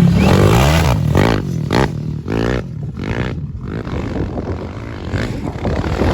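Off-road motorcycle engines revving, their pitch rising and falling again and again. Loudest in the first second or so.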